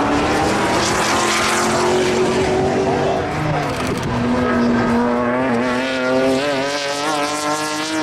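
A race car's engine running hard on track. Its pitch drops about halfway through, then climbs steadily again.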